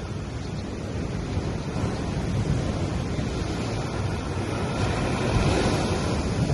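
Ocean waves washing onto a beach: a steady hiss of surf that swells louder about five seconds in.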